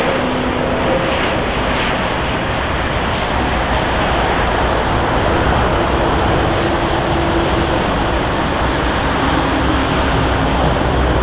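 Airbus A320neo jet airliner passing close by, a loud, steady rush of engine and air noise with a few faint steady tones in it.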